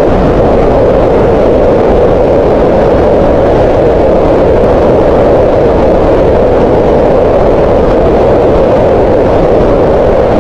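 Green noise: a loud, steady synthetic hiss with its energy centred in the middle range around 500 Hz, with no changes or events.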